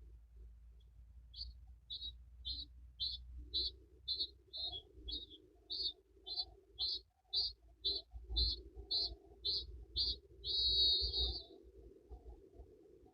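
A bird calling a long series of short high notes, about two a second, ending in one longer note, over a low steady rumble.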